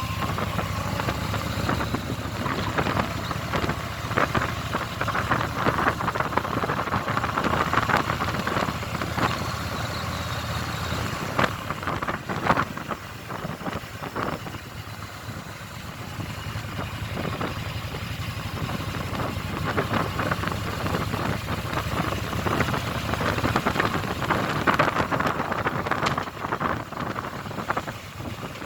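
Motorcycle engine running while riding through city streets. The low engine note fades for a few seconds around the middle, then comes back.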